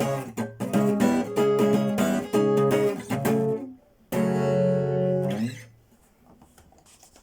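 Elitaro acoustic guitar strummed in chords, then one last chord about four seconds in that rings out and is muted about a second and a half later. Faint handling ticks follow.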